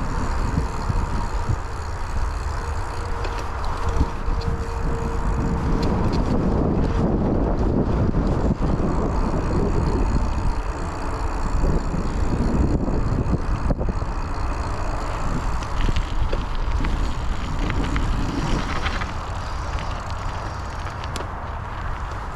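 Raleigh Trailblazer T6 hardtail mountain bike ridden over an off-road trail: steady tyre noise with rattles and small knocks from the bike over the rough ground, and wind rumbling on the chest-mounted microphone.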